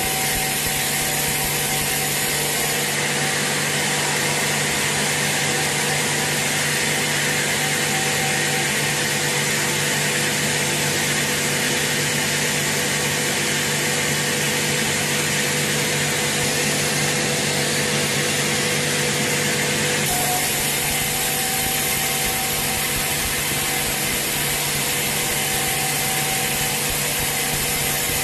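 Sawmill saw running and cutting through a teak log: a steady, loud hiss of the cut over a constant machine hum. The sound changes slightly about three seconds in and again about twenty seconds in.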